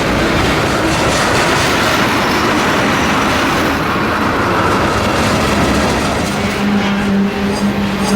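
Train passing close by on the rails: a loud, steady rolling noise of wheels on track, with a steady low hum joining about six seconds in.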